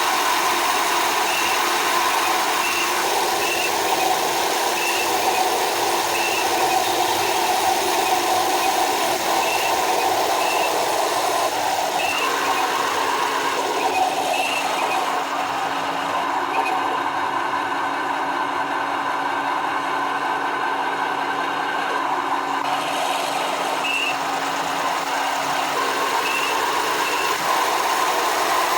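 A 1/16-scale RC tank's electronic sound unit playing a tank engine running sound through its small speaker. The drone is steady, with a faint high blip about every second and a half, and the engine note changes for several seconds midway.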